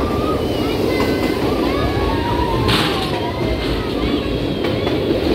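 Passenger train running: a steady rumble of the coaches on the track, with thin wavering high-pitched squeals over it and a brief hiss a little before the middle.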